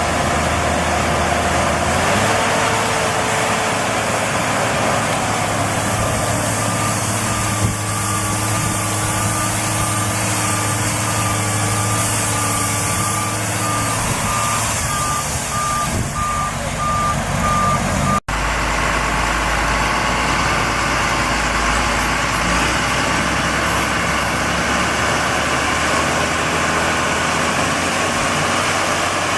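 Tractor engines running and revving, the pitch stepping up about two seconds in and dropping back later. A high repeating beep sounds over the engine for a stretch. The sound cuts abruptly to another deep engine note part way through.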